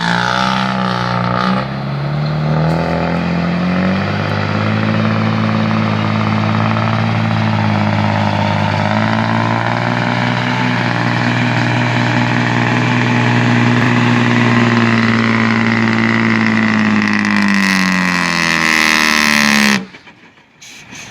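Hino dump truck's diesel engine through a loud exhaust pipe, revving up and held at high revs for a long stretch, then falling back. The sound cuts off suddenly near the end.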